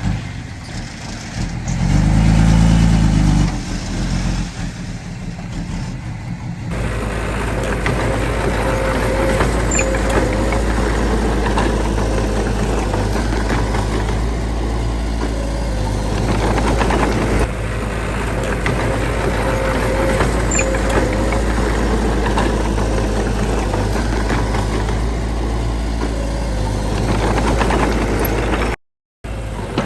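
Heavy diesel construction machinery running at a worksite. The engine note swells briefly about two seconds in, then settles into a steady low drone from about seven seconds in.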